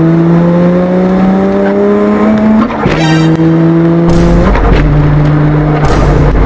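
Boosted Lexus engine under hard acceleration, heard from inside the cabin. The revs climb steadily for about three seconds, then drop at an upshift with a short sharp burst of noise. They climb briefly again, drop at a second shift, and settle into a steady pull, with a deep low rumble coming in about four seconds in.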